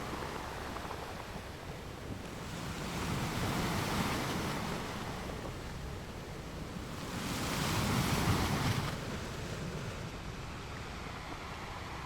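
Sea waves breaking on rocks: a steady wash of surf with two swells of louder crashing, the second and bigger one near the middle, each fading back into the rush of water.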